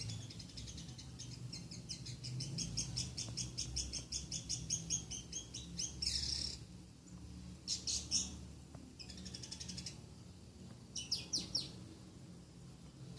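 Lovebird singing a fast, high chattering run of chirps for about six seconds, then shorter bursts of calls. Its song holds long-tailed shrike (cendet) phrases it picked up from training recordings.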